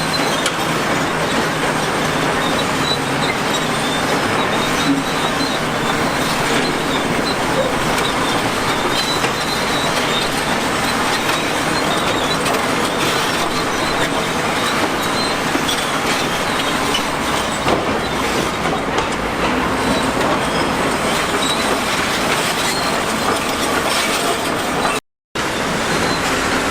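Heavy earthmoving machinery working: a steady, dense diesel-machine noise with a clanking, rail-like clatter. It cuts out for a moment near the end.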